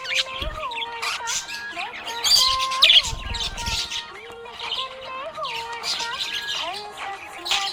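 Budgerigars chirping and chattering in rapid, overlapping bursts, with a melodic tune playing underneath.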